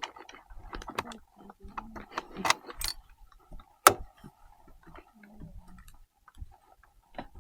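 Metal tools clicking and clinking as they are handled in irregular strokes, with one sharp knock about four seconds in.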